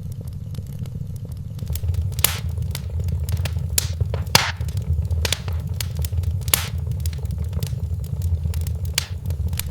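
Wood fire in a fireplace crackling, with irregular sharp pops (a few louder ones) over a steady low rumble.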